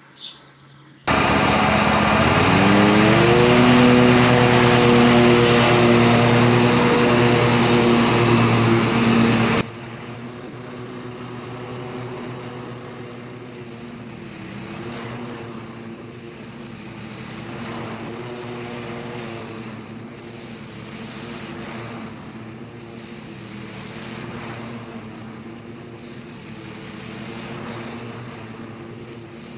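John Deere L120 lawn tractor engine starting about a second in and revving up to a steady high speed. About a third of the way in the sound drops suddenly to a quieter, steady running with slow swells in loudness as the tractor mows.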